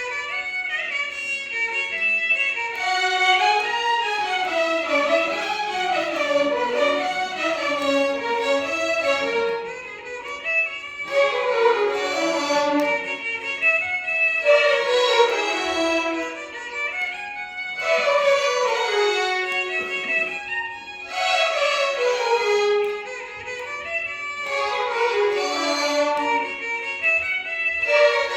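A violin orchestra playing Carnatic music together in unison: a string of falling melodic runs, each one sweeping down and a new one starting every few seconds.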